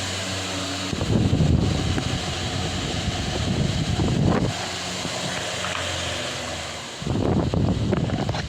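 Delta Gold electric fan running with a steady motor hum. About a second in and again near the end, its airflow buffets the microphone in rough gusts of wind noise for a few seconds each.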